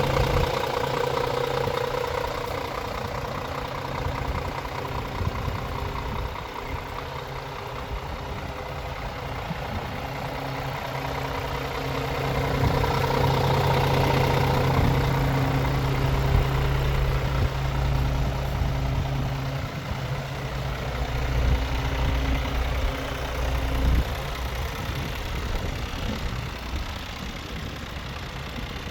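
Scania R450 truck's diesel engine idling steadily. It grows somewhat louder through the middle, and a strong low drone in it stops abruptly near the end.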